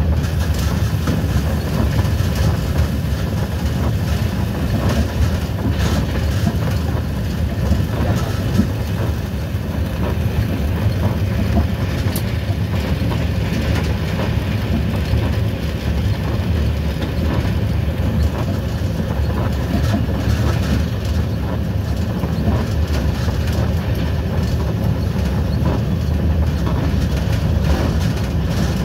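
Train running along the track, heard from the driver's cab: a steady low rumble with the clack of wheels over the rails.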